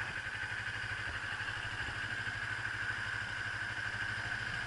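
Motorcycle engine running at a steady pitch with an even, rapid pulse, and a steady high-pitched hum over it.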